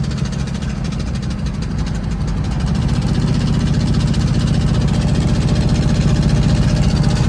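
Twin-turbo LS V8 running with a rapid clanking knock from inside the engine, the sign of the connecting rod that was later found snapped. It gets a little louder about three seconds in.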